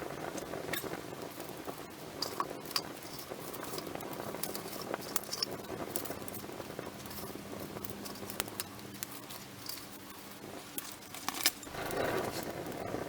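Wood fire crackling, with irregular sharp pops and snaps over a low hiss; one louder pop comes near the end.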